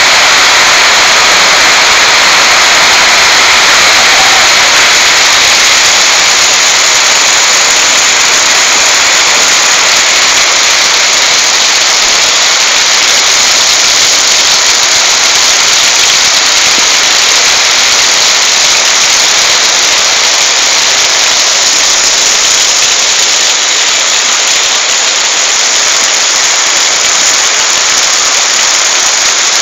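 Torrential tropical rain pouring down, a loud, steady hiss of rain on the ground and surroundings, so heavy it drowns out everything else.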